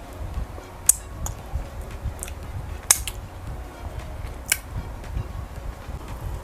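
Eating sounds of a person taking fufu with okra soup by hand: about five short, sharp wet clicks and smacks spread over the few seconds, over a low steady rumble.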